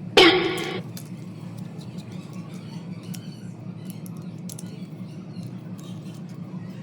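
A short, loud pitched tone just after the start, then faint light clicks and taps over a steady low hum.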